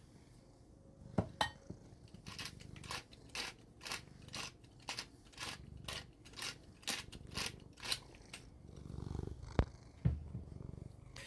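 A salt or pepper grinder being twisted, a rapid run of short crunchy grinding strokes at about two a second.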